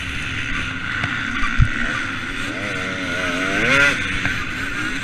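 2013 KTM 250 SX two-stroke motocross bike engine running on the throttle, its pitch rising and falling as the revs change near the middle, with wind on the microphone and a low thump about one and a half seconds in.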